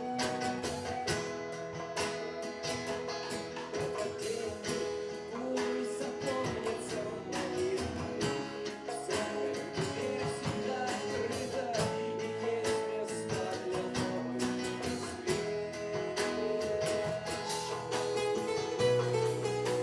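Art-rock band playing live, with guitar, held melodic notes and steady percussion hits.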